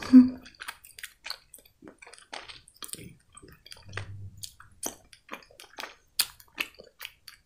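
A person chewing a chocolate candy with the mouth closed: soft, wet mouth clicks and smacks at irregular intervals.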